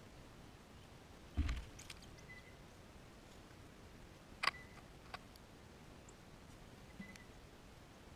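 Scattered knocks and clicks over a faint steady hiss. There is a dull thump about one and a half seconds in and a sharp click about halfway through, with a few faint, very short high chirps between them.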